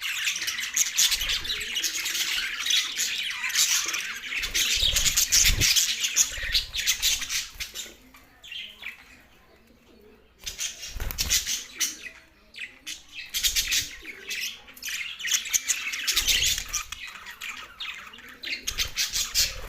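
Pet budgerigars chirping and chattering in a dense stream of quick, high chirps. The chirping drops away for about two seconds midway, then picks up again. A few low thuds come and go.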